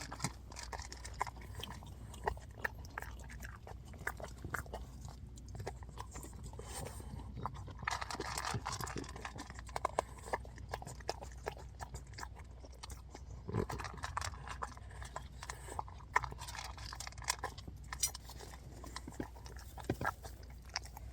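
Close-up chewing and crunching of food: irregular crisp crunches and bites, with a denser stretch of chewing about eight seconds in.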